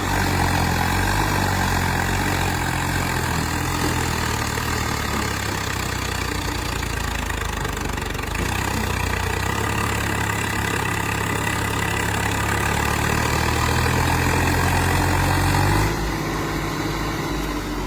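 Diesel engine running at a steady idle. Its note shifts about halfway through, and it drops in level about sixteen seconds in.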